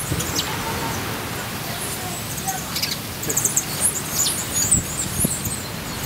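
Small songbirds chirping at a grain feeder: short high chirps come in a flurry during the second half, over steady background noise.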